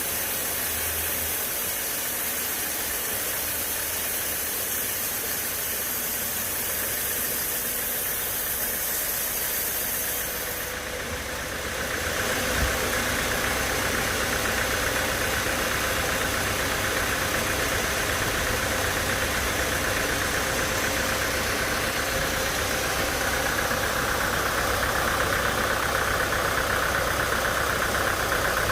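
Sawmill machinery running steadily. About eleven seconds in, the hiss changes and a stronger mid-pitched hum takes over, with a single knock just after.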